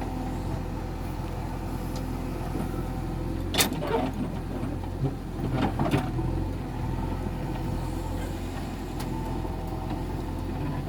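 Tractor engine running steadily at a low, even speed, with a few sharp knocks or clanks about four and six seconds in.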